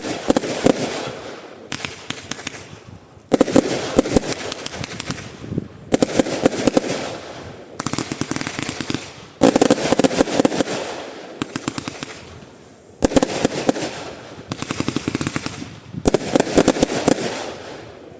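Lesli 'Biggest Momma' firework battery (cake) firing: about eight shots a few seconds apart, each breaking into a dense crackle that dies away, the last fading out near the end.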